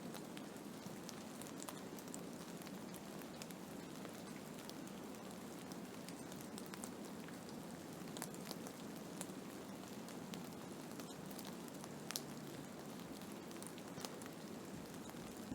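Blizzard ambience: a steady low rush with many scattered light ticks and patters of driven snow against a surface, a few ticks sharper than the rest.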